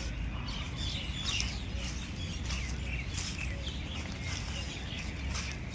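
Birds chirping, with many short, irregular chirps, over a steady low rumble.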